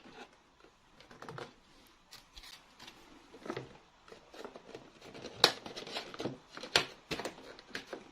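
Toy pieces and packaging being handled: scattered clicks and taps with soft rustling, two sharper clicks a little past halfway.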